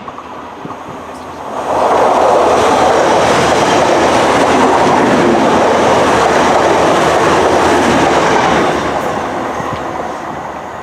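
A train passing close by on the line: a rush of wheel-on-rail noise that comes up sharply about two seconds in, holds steady for several seconds, then fades away near the end.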